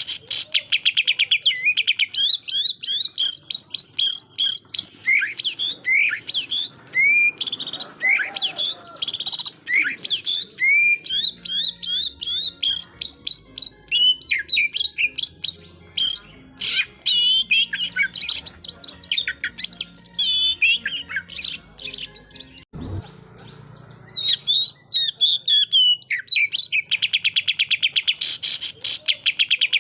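Oriental magpie-robin (kacer) singing hard in a fast, varied stream of chirps, whistles and rapid-fire rattling notes, breaking off for about a second partway through, then resuming.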